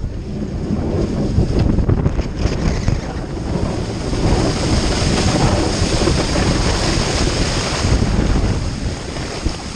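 A pickup's snow plow blade is driven fast through heavy, wet snow, throwing it off the blade in a loud, rushing spray. The sound builds over the first second, holds, then eases toward the end.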